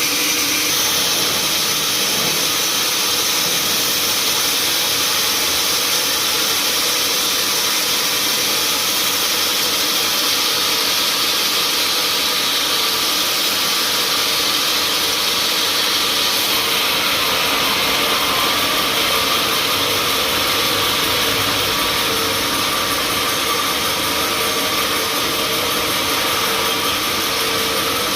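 Sawmill saw running steadily, a loud continuous machine noise with a faint steady hum under it.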